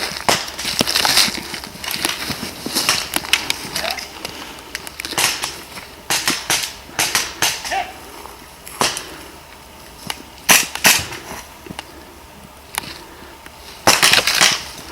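Airsoft guns firing: scattered sharp pops and short runs of shots, with a dense burst near the end.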